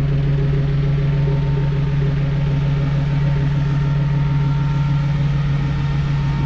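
Early Ford Bronco's 5.0 V8 idling steadily: an even, deep hum over a pulsing low rumble.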